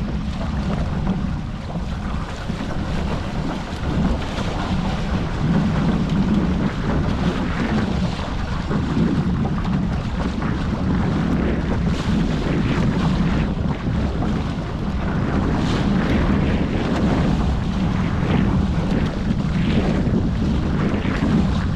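Wind buffeting the microphone over water rushing and splashing against the hulls of a Hobie 14 catamaran under sail, swelling and easing with the gusts and waves.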